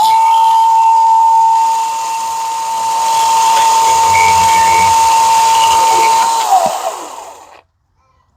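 Milwaukee battery top-handle chainsaw running at full speed with a steady high whine and chain hiss while cutting through a wooden fence post, then the motor winds down and stops about seven seconds in.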